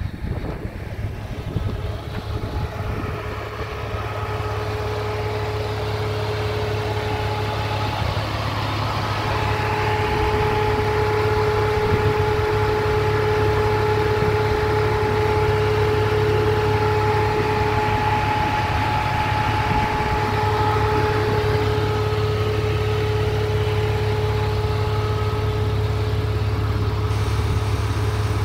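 Audi A6 C5's 2.7-litre twin-turbo V6 idling steadily, with a steady whine over its low drone. It grows louder about a third of the way in, as the open engine bay comes close.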